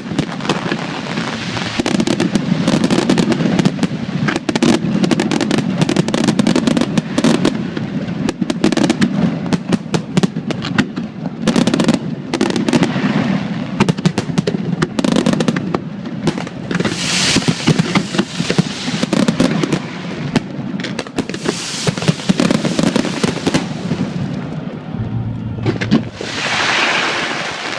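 Aerial fireworks display: a dense, continuous barrage of bangs and crackles, with a few longer hissing bursts of crackle around the middle and near the end.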